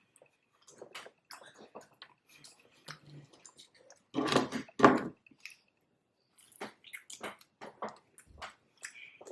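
Close-miked eating sounds: wet chewing, smacking and crunching of a cheeseburger egg roll, with two louder bites about four and five seconds in.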